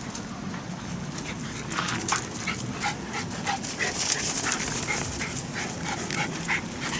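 A Shiba Inu dog making short, irregular high-pitched whines and yelps, many times over, against steady outdoor background noise.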